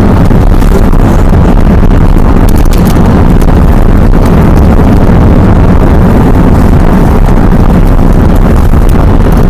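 Steady road and engine noise inside a moving car, loud and unbroken, with heavy low rumble.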